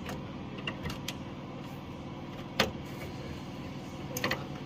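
Sharp clicks and knocks of tools and parts as a Worcester Bosch Greenstar boiler's flow manifold is worked loose, the loudest about two and a half seconds in and a few more near the end. A steady low hum runs underneath.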